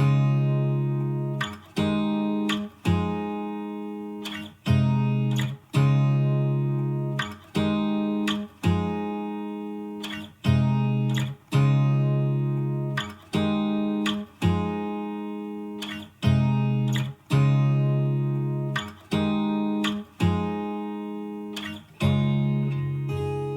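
Background music: acoustic guitar playing slow chords, one struck about every second and a half and left to ring out.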